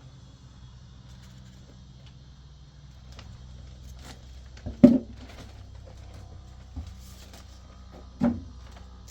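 Two loud thumps about three and a half seconds apart over a low steady hum, with a few faint clicks between them.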